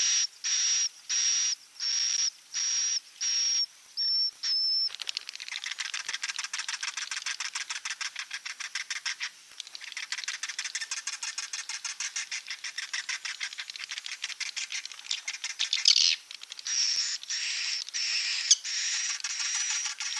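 Swiftlet calls played as a roosting lure. First comes a run of short chirps with a high whistle, about one and a half a second. From about five seconds in they give way to a fast, dense twittering chatter of clicks.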